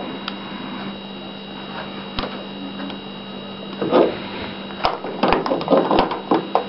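Worn-out microwave oven running: a steady electrical hum with a faint high whine, a few sharp clicks early on, and a run of clicks and knocks in the second half.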